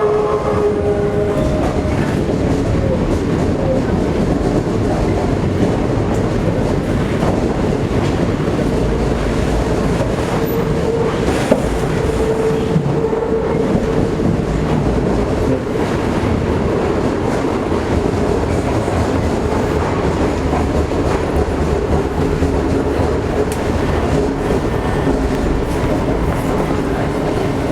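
Toei 5300 series electric commuter train running, heard from inside the car: a steady rumble of wheels on rail with clickety-clack, and a faint whine that strengthens about midway.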